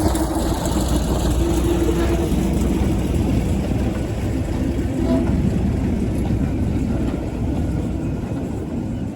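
Diesel locomotive engine running, a loud steady rumble that eases off slightly near the end.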